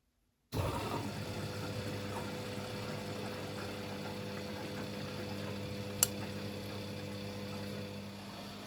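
Beko WML 71433 NP washing machine running, starting abruptly about half a second in with a steady mechanical hum. There is a single sharp click about six seconds in.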